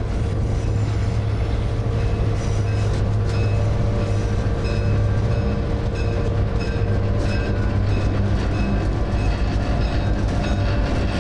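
A train on the move: a steady low engine drone with irregular clicks and brief squeaks from the wheels on the track.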